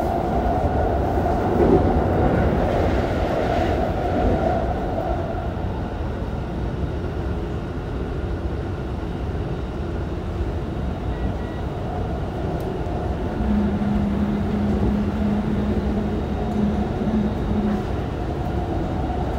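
Keikyu 1000 series electric train with Toshiba IGBT-VVVF traction, running between stations and heard from inside the car: a steady rumble of wheels on rail and running gear. A steady low hum holds for a few seconds about two-thirds of the way through.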